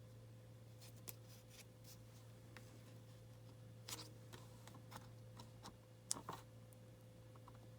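Faint handling of paper and craft tools: a few soft clicks and rustles, the sharpest about six seconds in, over a steady low electrical hum.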